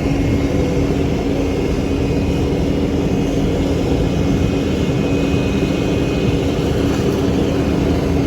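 Heavy truck engine running steadily, a continuous drone with a constant hum that does not rise or fall.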